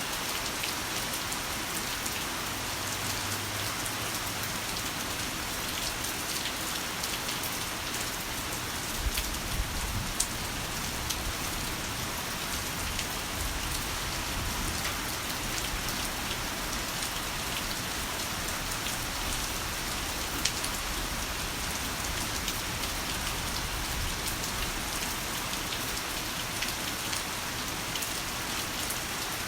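Heavy rain falling steadily, a dense even hiss with scattered sharper drop ticks. About nine seconds in, a low rumble sets in beneath it and slowly fades.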